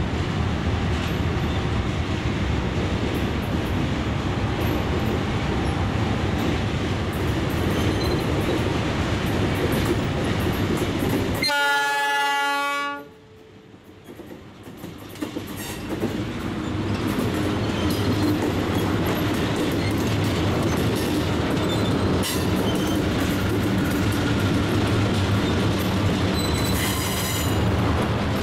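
Diesel freight train coming out of a tunnel: the locomotives' engines rumble steadily, then a short blast of the multi-note air horn sounds about twelve seconds in and cuts off sharply. Afterwards the locomotives and wagons roll past with a steady rumble and clickety-clack, and a brief high squeal comes near the end.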